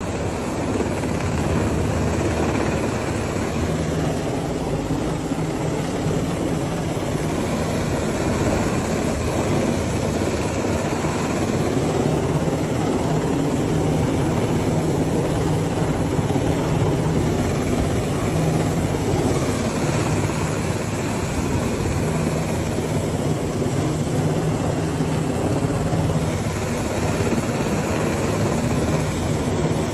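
Firefighting helicopter hovering low to draw water from a swimming pool: steady, loud rotor and turbine noise with a low hum, and a hiss that slowly sweeps up and down in pitch every few seconds.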